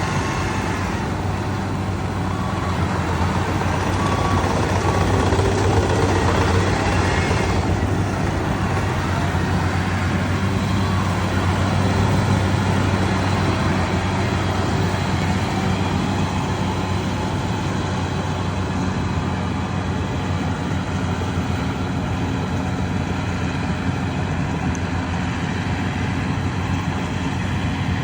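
Corn harvester's engine running steadily under a continuous mechanical hum, with a slight swell in the first several seconds.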